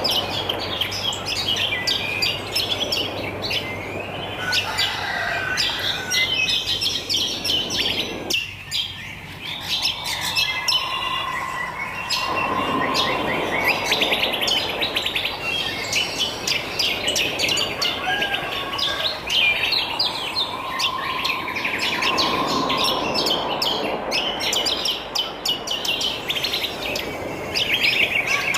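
Many wild birds chirping and singing at once, a dense overlapping chorus of quick high chirps and trills, over a hissing background that drops out briefly about eight seconds in.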